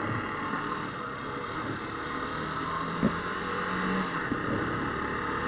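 Motorcycle engine running while riding, under a steady haze of road and wind noise, with one brief sharp knock about three seconds in.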